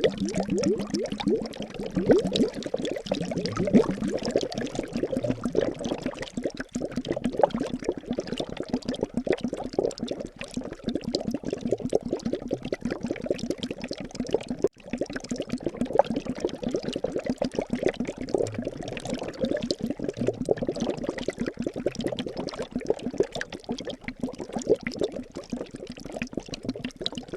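Liquid bubbling continuously, a dense stream of small bubble pops and gurgles.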